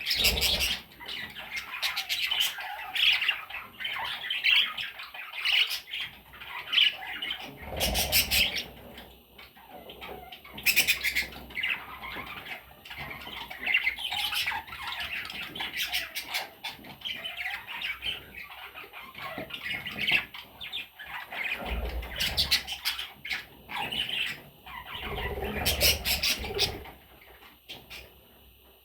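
Pet budgerigars chattering and squawking, a busy run of warbles and harsh calls that goes on and off throughout.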